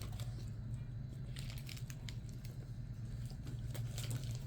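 Close-up eating sounds: biting into and chewing a ground beef and cheese burrito, with soft wet squishing and scattered small crackles, busiest about a second and a half in and again near the end, over a steady low hum.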